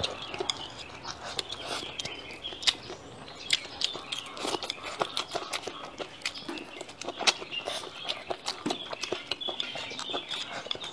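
Close-up eating sounds: wet chewing, slurping and lip-smacking, a fast irregular run of sharp mouth clicks.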